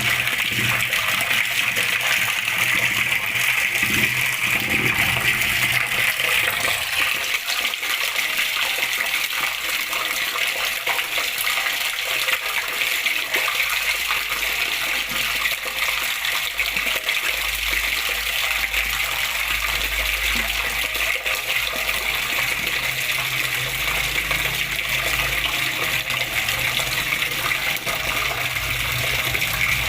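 Water flowing and splashing in a steady, unbroken rush.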